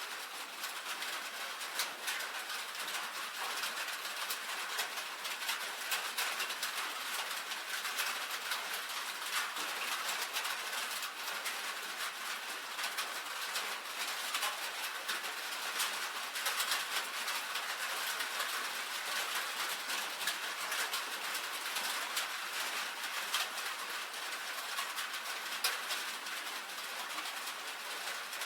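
Rain falling steadily on a tin roof: a dense, even ticking of individual drops striking the metal sheet, with no low rumble under it.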